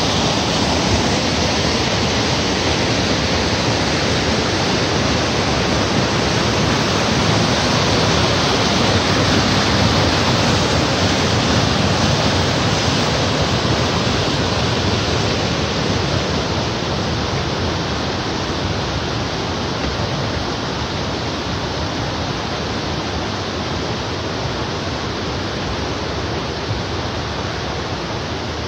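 Waterfall: a steady, loud rush of falling water, easing slightly in level after about the halfway point.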